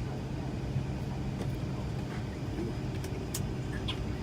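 Steady low hum of the airliner cabin inside a Boeing 757-200, with a few faint clicks.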